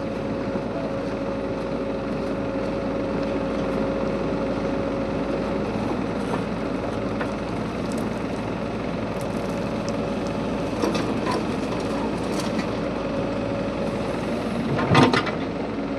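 JCB 3DX backhoe loader's diesel engine running steadily, with a few short knocks about two-thirds of the way in and a louder clatter near the end.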